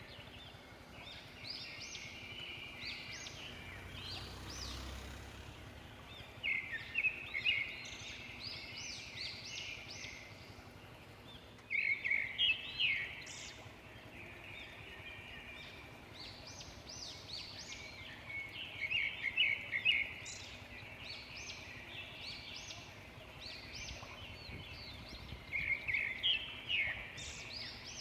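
Birds singing, with bursts of quick, sharp chirping notes every few seconds over a steady background hiss.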